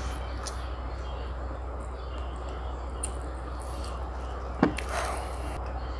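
Close-up eating sounds over a steady background hiss and low hum, with one sharp knock or crunch about four and a half seconds in.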